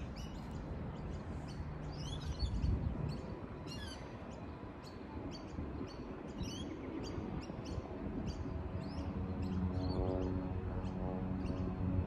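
Small birds chirping in short, scattered calls over a low background rumble; from about nine seconds in, a low droning hum slowly builds.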